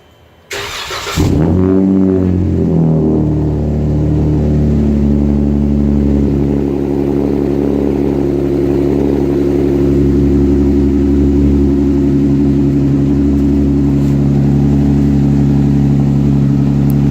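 2016 Dodge Ram's Pentastar 3.6-litre V6 with a Borla XR1 exhaust cold-starting: a brief crank about half a second in, then the engine catches, flares up in revs and settles into a steady idle.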